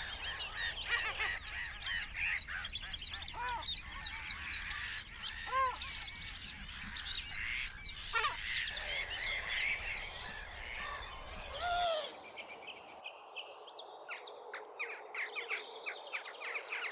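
Several wild birds calling and singing over one another, with many short chirps and whistles. About twelve seconds in, the background drops out abruptly and fewer, sharper calls continue.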